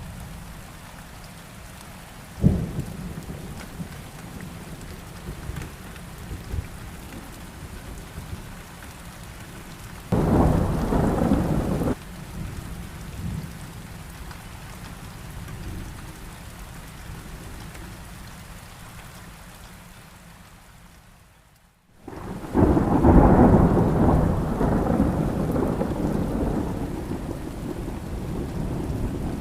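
Heavy rain with thunder. A sharp thunderclap comes about two seconds in, and a louder two-second burst starts and stops abruptly a third of the way through. The sound fades out about two-thirds through, then returns with a loud, long rumble of thunder over the rain that slowly dies down.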